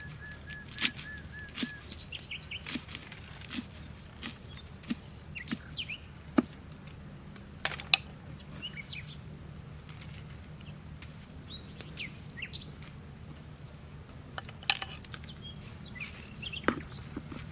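Outdoor ambience in which a bird or insect repeats a short high chirp at a steady pace, a little under twice a second. Another quick series of notes stops about two seconds in. Scattered sharp clicks and knocks come from something being handled.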